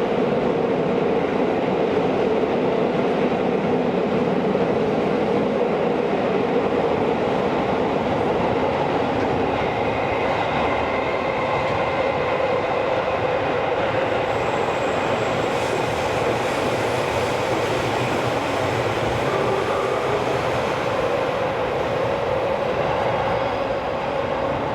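Tokyo Metro 16000 series subway car heard from inside, running at speed: a steady rumble of wheels on rail, with a faint high whine joining in about ten seconds in.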